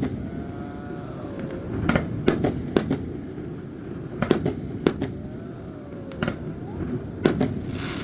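Fireworks display: aerial shells bursting in a series of sharp bangs, some single and some in quick clusters, about a dozen over the eight seconds, over a steady low rumble.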